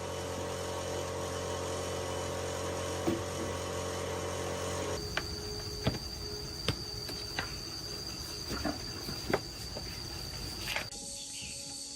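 A machine running with a steady hum. About five seconds in it gives way to a steady high whine and a scattering of sharp metallic taps or clicks, roughly one every second.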